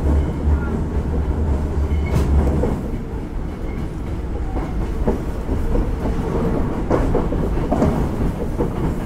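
Hankyu 9000 series electric train running on the line, heard from inside the car: a steady rumble with clatter from the rail joints. A heavy low rumble eases off about two and a half seconds in.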